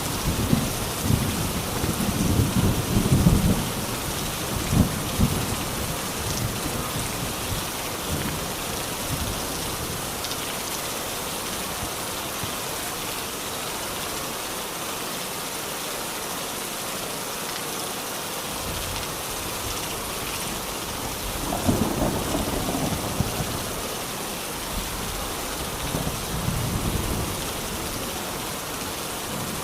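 Steady rain falling, with low rolls of thunder rumbling in the first few seconds and again about twenty-two seconds in.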